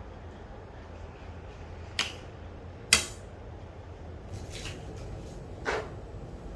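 A few sharp knocks and clacks of household objects being handled and set down, the loudest about three seconds in, one with a short ring near the end, over a steady low hum.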